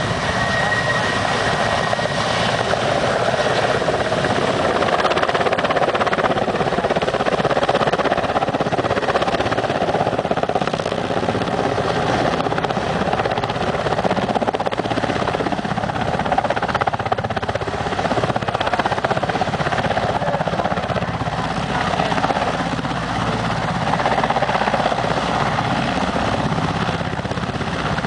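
Helicopter running steadily under an external sling load, its rotor and turbine noise swelling gently in level, with a faint high whistle in the first couple of seconds.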